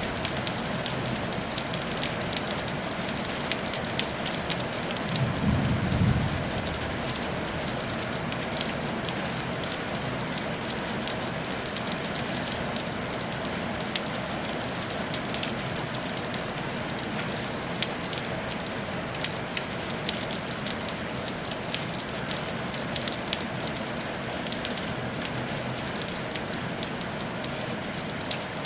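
Steady rain falling on a tile roof, with scattered individual drops ticking. A brief low rumble comes about five seconds in.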